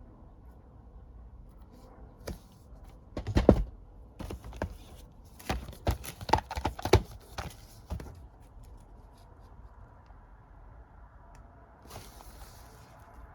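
Blu-ray and DVD cases and their packaging being handled: a run of sharp knocks and clacks, the loudest about three and a half seconds in, then a short rustle near the end.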